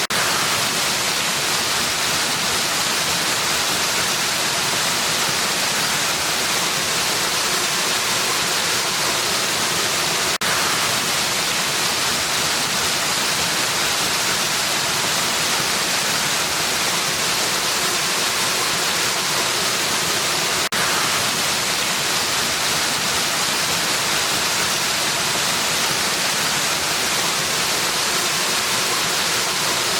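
Waterfall rushing: a steady, even hiss of falling water, strongest in the high range, with a brief small dip in level about every ten seconds.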